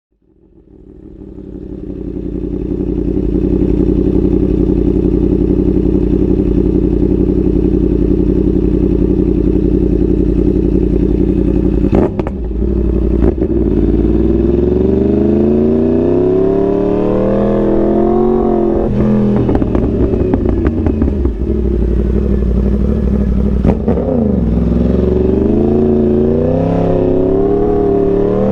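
2021 Yamaha R1's crossplane inline-four engine running, fading in and holding a steady note for about ten seconds. After a couple of sharp cracks it accelerates in rising climbs, the pitch dropping back at each upshift, and near the end the note wavers up and down.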